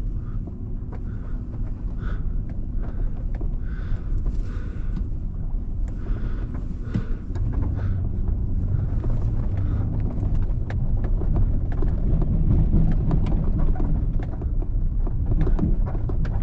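Pickup truck running and moving slowly, a steady low engine and road rumble heard with small rattles and knocks, growing louder in the second half.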